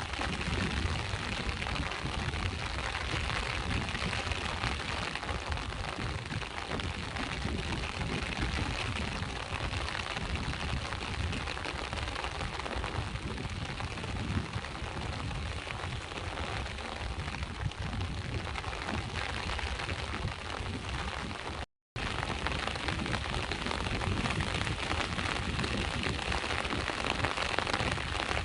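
Steady rain mixed with sea waves washing on the shore, an even rushing hiss. The sound cuts out completely for a split second about three-quarters of the way through, then resumes.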